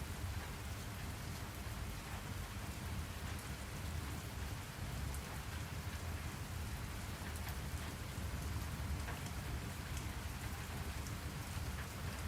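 Steady rain falling, with scattered drop ticks over a low steady rumble.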